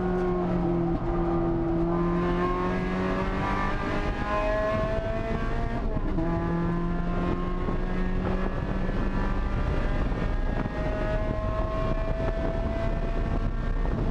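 Engine of an NC Mazda MX-5 Miata with a swapped-in 2.5-litre four-cylinder, heard from inside the cabin under hard acceleration on track. The engine note rises slowly, breaks and drops about six seconds in, then rises again over steady wind and road noise.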